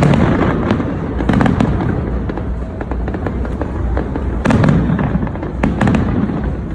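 Fireworks display going off continuously: dense crackling with heavier booms about a second and a half in and twice near the end.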